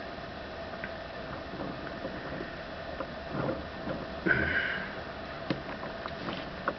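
A steady faint hum with a few faint clicks and a short rustling noise about four seconds in.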